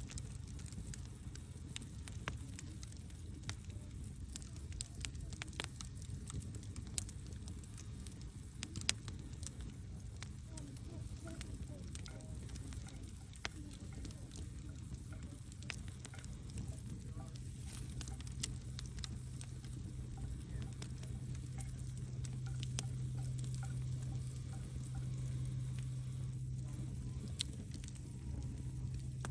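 Wood fire burning in a fireplace: irregular crackles and sharp pops over a low steady rumble of the flames, with a couple of louder pops. A low hum grows stronger near the end.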